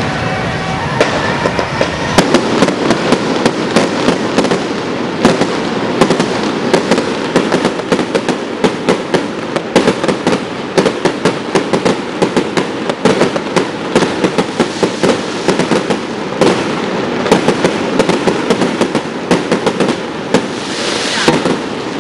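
Fireworks display going off: a dense, unbroken crackle of sharp bangs, many a second, over a steady rushing noise.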